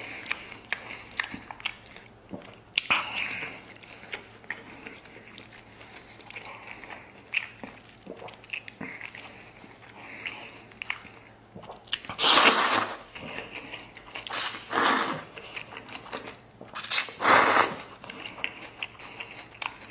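Close-up mouth sounds of a person biting into and chewing braised pork hock skin: wet smacking with small clicks throughout, and three louder bursts of noise in the second half.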